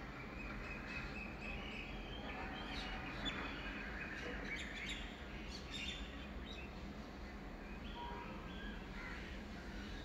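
Several birds chirping and calling in the morning, busiest from about two to six seconds in, over a steady low rumble.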